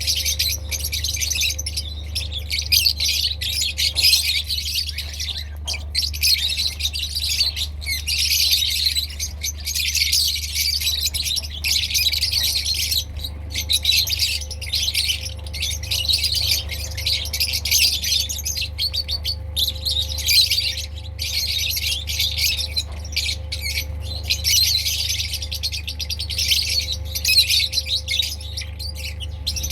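Many lovebirds chattering at once: dense, continuous high chirps and squawks that rise and fall in waves, over a steady low hum.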